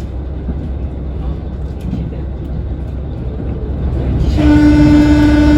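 KiHa 40 diesel railcar running with a steady low rumble; about four seconds in, the train's horn sounds one long, steady note.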